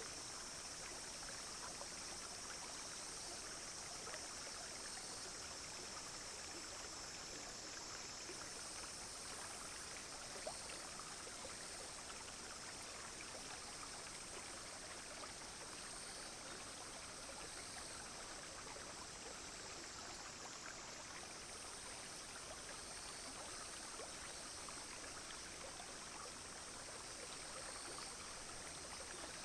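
Small clear stream babbling steadily over stones, with a steady high-pitched insect chorus of cicadas and other insects above it that shifts a little about eight seconds in and again around twenty seconds.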